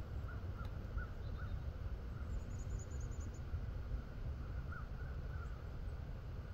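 Birds calling in the open: a string of short, repeated calls, with a quick high trill about two seconds in, over a steady low rumble.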